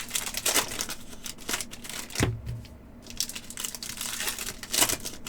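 Hockey card pack wrappers being torn open and crinkled by hand, in irregular crackly bursts, with a light thump about two seconds in.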